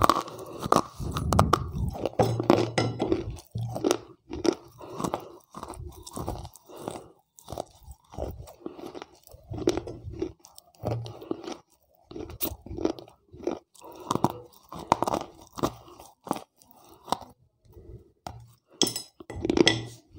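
Crunching and chewing of wet slate pencil pieces close to a clip-on microphone held at the mouth: a steady run of gritty crunches, about two a second.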